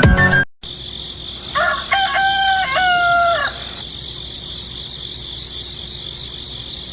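A rooster crowing once, a drawn-out call of about two seconds with short breaks, over a steady high-pitched drone.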